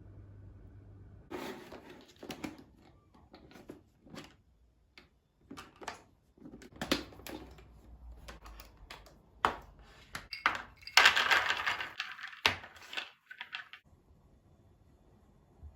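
Kitchen handling sounds: a run of short, irregular clicks and knocks, with a louder, noisier rustle lasting about a second and a half, about eleven seconds in.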